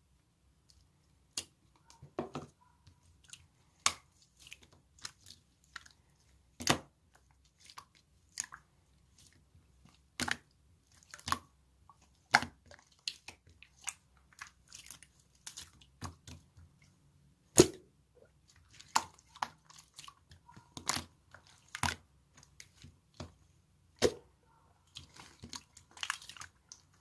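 Slime being pressed and stretched by hand, giving sharp, irregular clicks and pops, which come thicker and wetter near the end.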